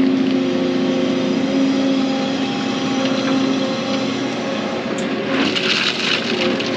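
Excavator's diesel engine running steadily as the machine works a bucket of gravel, with a broader rushing noise coming in about five and a half seconds in.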